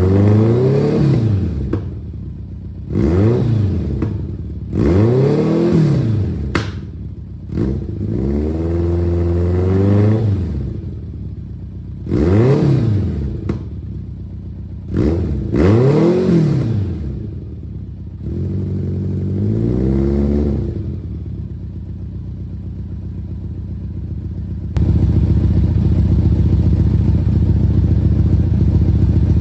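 1991 BMW K1 motorcycle's inline-four engine blipped from idle about seven times, the exhaust note rising and falling in pitch with each rev. Over the last few seconds it runs louder and steadier, then stops suddenly.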